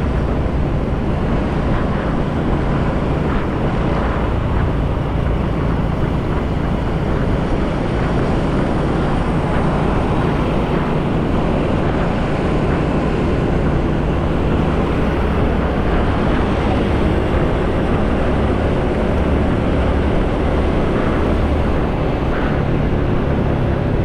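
Motorcycle riding at road speed: a steady rush of wind noise on the GoPro's microphone over the running engine and tyre noise, heaviest in the low end and unchanging throughout.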